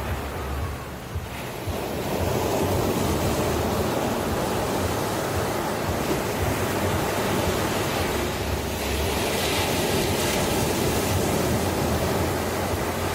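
Ocean surf washing onto a shore: a continuous rush of waves that swells up about two seconds in, with a brighter hiss of breaking water around ten seconds in.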